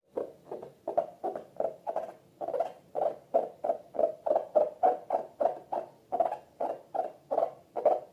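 Slime being squeezed and pressed by hand, a steady run of short squishy squelches about three a second that stops near the end.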